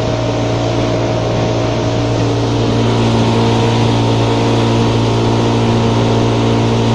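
Motorboat engine running steadily under way, a constant droning hum. About two and a half seconds in its note shifts slightly and it gets a little louder.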